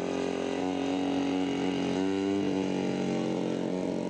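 Radio-controlled model aircraft engine running steadily, its pitch shifting slightly about two seconds in.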